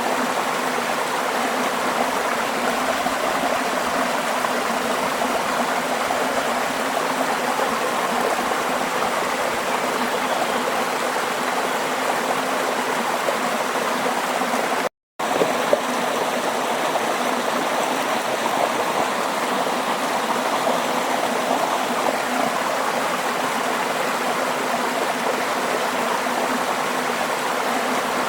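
Steady rush of flowing stream water with no change in level, cut once about halfway by a split-second dropout to silence.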